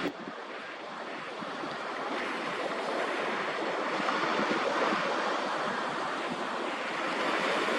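Sea waves washing onto the shore, an even rushing wash that swells and eases slowly, with some wind on the microphone.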